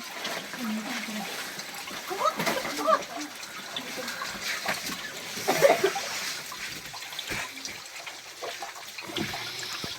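Steady rush of a waterfall's water, with short bits of voices calling out a couple of times.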